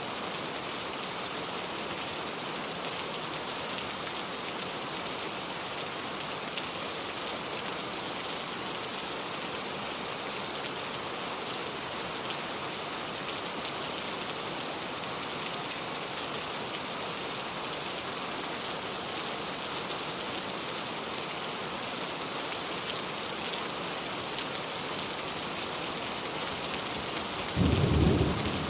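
Heavy rain pouring steadily, with a short, loud rumble of thunder about a second before the end.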